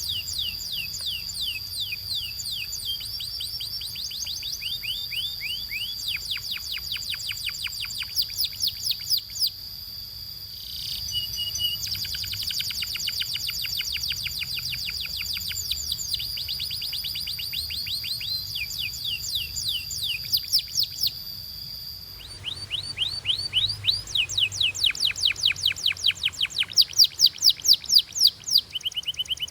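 Canary singing in fast trills of repeated high, downward-sweeping notes, with a steady high whistle beneath for the first two-thirds; about two-thirds of the way through the song changes abruptly to a new phrase of louder trills.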